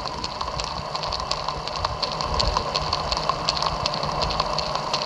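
Ford BF Falcon engine idling, heard through a screwdriver held against the serpentine-belt idler pulley. Over the steady hum and whine of the pulley bearing there is a rapid, irregular ticking, the bearing noise being checked as the source of a mystery engine noise.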